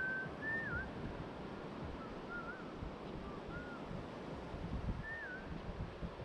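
Surf and wind rushing on the microphone, with about five thin whistled calls over it: a held note at the start, then short swooping notes that rise and fall.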